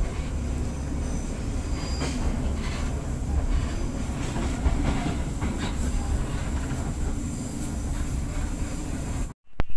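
Passenger train running on the rails, heard from inside the carriage: a steady low rumble of wheels and track, with a faint high wheel squeal about two seconds in. It cuts off suddenly near the end.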